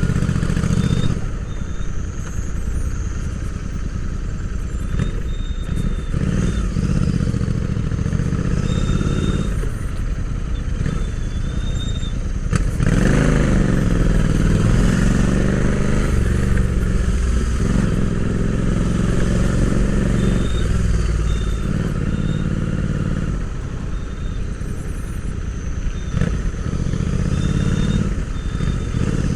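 Royal Enfield Interceptor 650's parallel-twin engine running under way, heard from on board the bike. The engine eases off about a second in, then pulls harder and louder about halfway through, its pitch rising and falling as it revs.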